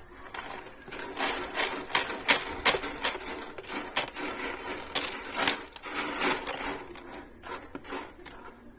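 Scottish Fold kitten digging and scratching in its litter box to bury its droppings: an irregular run of quick scrapes and rustles, several a second.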